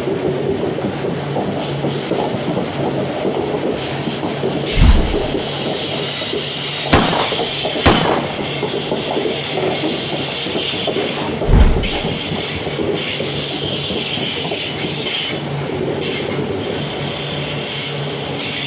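Loaded iron-ore gondola wagons of a freight train rolling past, a steady rumble of wheels on rail with a faint high squeal. A couple of sharp metallic clanks come midway, between two low thumps.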